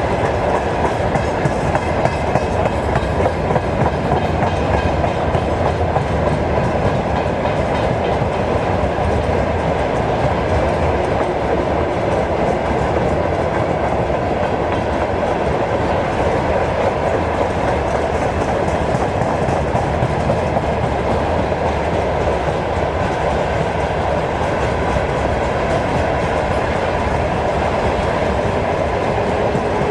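Freight train wagons rolling on the rails: a loud, steady rumble of wheels on track.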